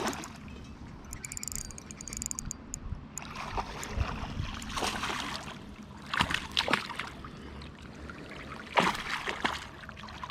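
River water splashing: several separate splashes over a steady rush of moving water.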